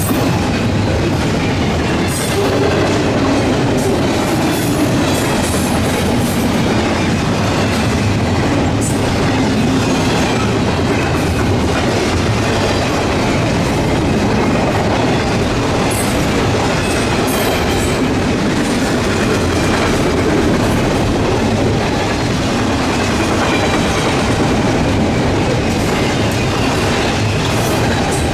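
Double-stack intermodal well cars of a long freight train rolling past, a steady loud rumble of steel wheels on rail with repeated sharp clicks as the wheels pass over rail joints.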